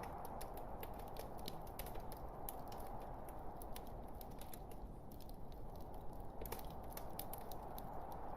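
Log fire crackling in a fireplace: many small, sharp, irregular pops and snaps over a steady low rushing hiss of the burning wood.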